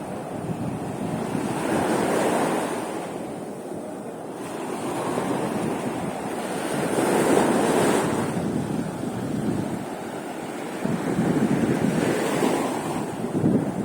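Sea of Azov waves washing onto the shore, swelling and falling back about every five seconds, with wind buffeting the microphone.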